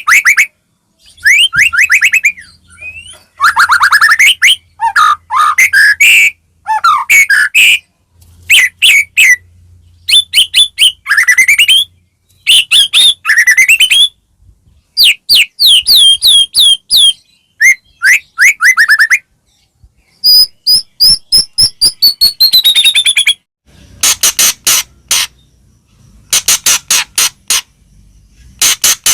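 White-rumped shama (murai batu) singing loudly in phrases of a second or two with short pauses between, mixing fast runs of repeated notes with sweeping whistles; near the end it gives a quick series of sharp, clicking notes.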